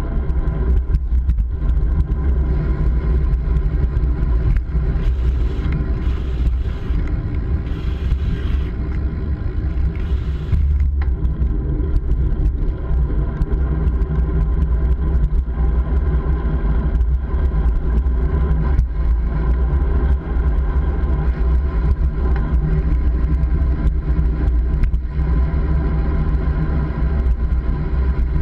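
Steady, loud road-riding noise from a bike on the move: a heavy low rumble with a constant drone over it.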